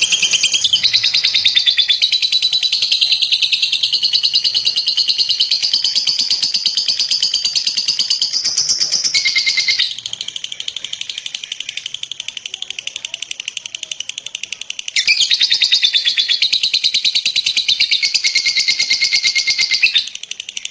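Lovebird giving its long, rapid, high-pitched chattering trill (the 'ngekek' call). It is loud for about ten seconds, softer for several seconds, then loud again before stopping abruptly near the end.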